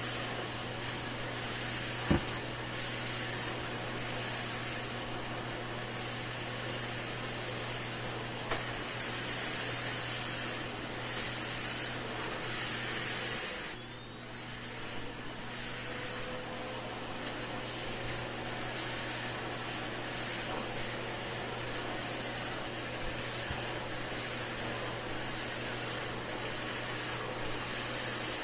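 Vacuum cleaner running steadily, its high hiss swelling and fading about once a second. About halfway the motor whine dips briefly and then climbs back up in pitch. There is a single sharp click about two seconds in.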